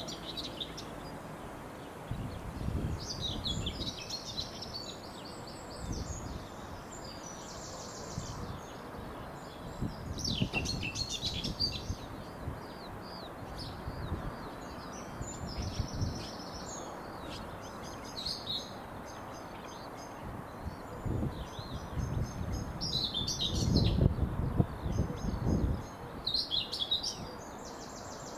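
Songbirds singing in repeated short phrases of high chirps and trills, over several swells of low rumbling noise, the strongest about three-quarters of the way through.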